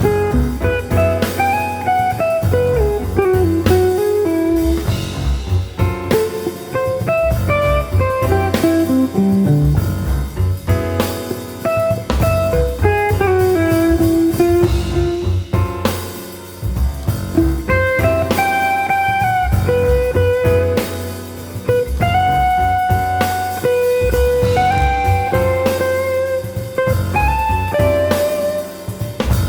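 Instrumental modern jazz: a lead melody line with sliding, bending notes over a bass line and a drum kit.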